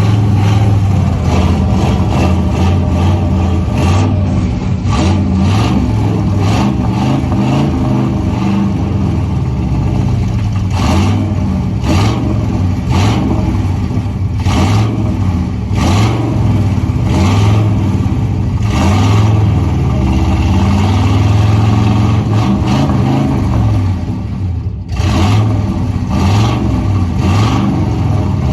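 Truck engine running and being revved, its speed rising and falling, with frequent irregular sharp pops or knocks throughout. The engine is running rough, "not very happy".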